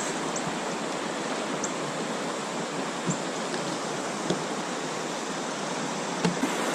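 Steady rush of river water running over a shoal or rapid, with a few faint light ticks.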